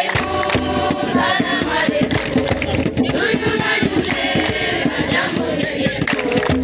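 A group of voices singing a song together over a steady percussive beat.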